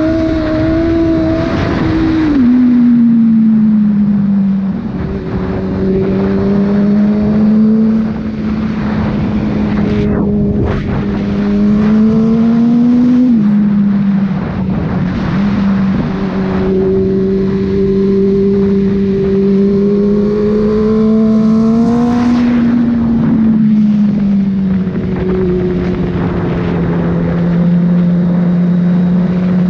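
Inline-four sport motorcycle engine heard from on the bike, cruising at moderate steady revs, with wind rushing over the camera microphone. The engine note drops in pitch a few seconds in, then rises and falls back twice more as the rider rolls on and off the throttle.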